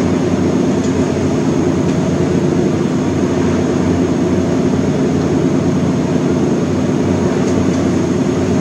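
Steady mechanical hum with a rush of noise, unchanging throughout, like an air conditioner or fan running.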